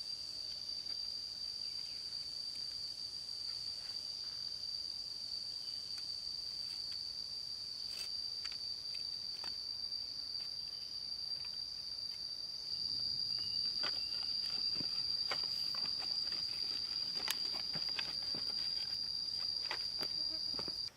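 Steady high-pitched insect drone in jungle ambience, with scattered light clicks and knocks that become more frequent and a little louder from about halfway.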